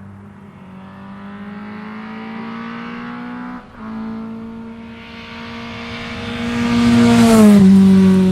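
Rally Lada engine at full throttle, climbing through the revs with one gear change about three and a half seconds in, growing louder as the car comes closer and then dropping in pitch as it passes close by, about seven and a half seconds in.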